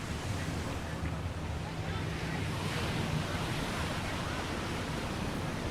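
Ocean surf washing onto the beach, a steady rushing noise, with wind buffeting the microphone. Faint voices of people talk in the background.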